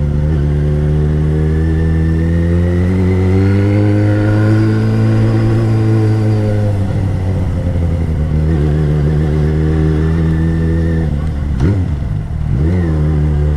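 Yamaha XJ6's 600cc inline-four engine running under way, its pitch slowly rising and then falling about halfway through. Near the end the revs dip sharply and climb back twice in quick succession.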